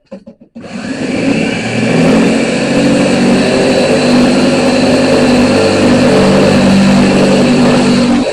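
Shrinking disc on an angle grinder spinning against the steel door skin of a 1965 Ford Mustang, heating a high spot so the metal shrinks. It starts about half a second in after a few clicks and then runs loud and steady, with a wavering whine.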